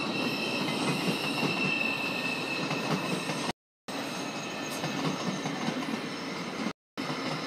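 ICE high-speed train rolling past, with a steady rumble of wheels on rail and a thin high wheel squeal that fades after the first few seconds. The sound cuts out completely twice for a moment.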